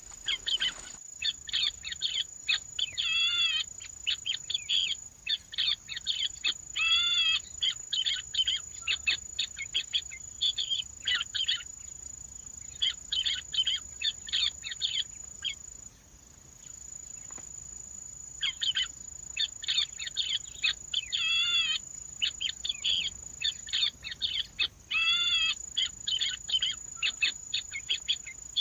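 Birds calling in rapid runs of short chirping notes, in bouts of a few seconds with brief pauses, some notes drawn out into wavering trills. A steady high-pitched whine runs underneath.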